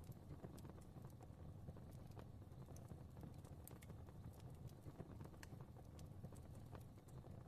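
Fireplace fire crackling softly: irregular small snaps and ticks over a quiet, steady low rumble of flame.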